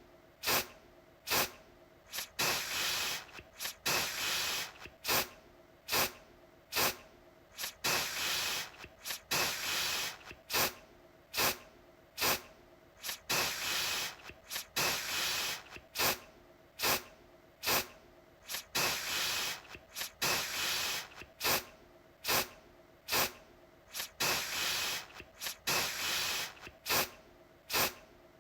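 Aerosol deodorant can sprayed in short repeated bursts: each starts with a sharp click and runs into a hiss of about a second, one every second and a half to two seconds.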